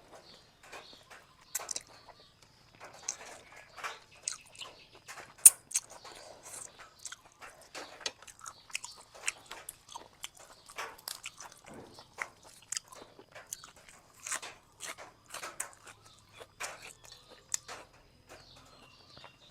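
Close-up eating sounds from a bowl of boat noodles with sliced pork: irregular chewing, biting and wet mouth clicks and smacks, with one sharp click about five and a half seconds in.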